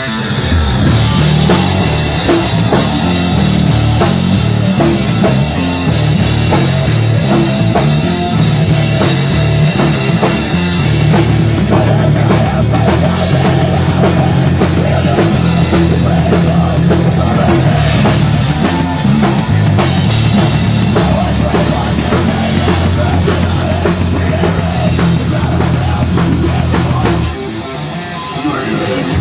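Live thrash-rock band playing loud: drum kit and guitars driving on steadily, thinning out briefly near the end before the full band comes back in.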